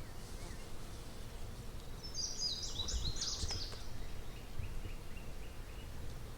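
A small songbird sings a short, high, jumbled phrase about two seconds in, then a faint run of thin repeated notes, over a low steady rumble.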